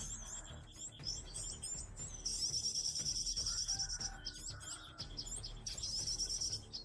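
Small birds chirping, with long, fast, high trills twice, about two seconds in and again near the end.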